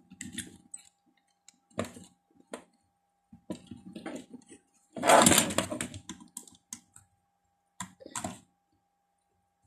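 Small clicks and taps of tools and circuit-board parts handled on a workbench while desoldering a capacitor, with a longer scraping rustle about five seconds in. A faint steady high tone runs underneath.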